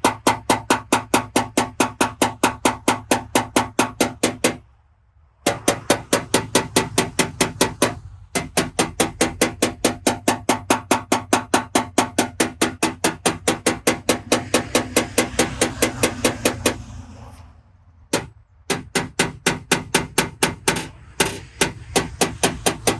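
Paintless dent repair hammer tapping a knockdown tool against a car's sheet-metal panel in quick, even taps, about five a second, each with a ringing note. The taps knock down the crowns around the edge of a dent. They stop briefly a few times as the tool is moved.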